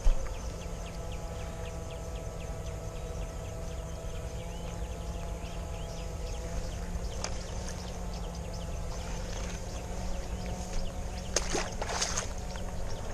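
Wading and sloshing through water with the electrofishing gear. A faint steady electrical whine runs through the first half, then a few louder splashes come about eleven to twelve seconds in.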